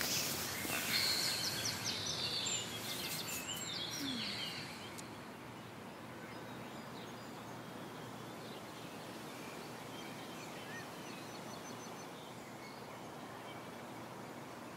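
Birds chirping over faint outdoor ambience, busiest in the first few seconds, then thinning to an occasional faint call over a steady hiss.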